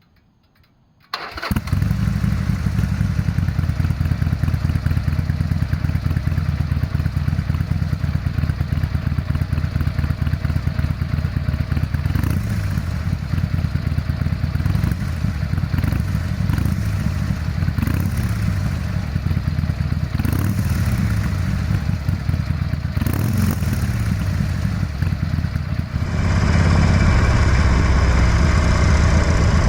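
A Harley-Davidson Forty-Eight's 1200 cc V-twin, breathing through a Belles Performance aftermarket muffler, starts about a second in and settles into a steady idle. A few brief rises in the running come through the middle, and near the end it turns louder and brighter.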